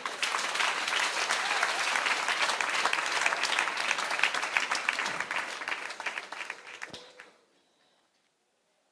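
An audience applauding with dense, steady clapping that dies away about seven seconds in.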